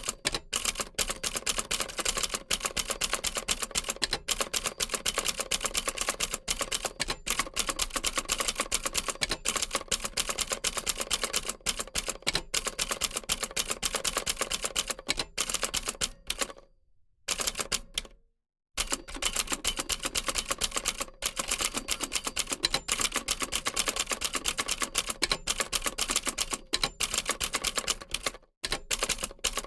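Old typewriter being typed on: a fast, uneven stream of key strikes, with a short pause a little past halfway.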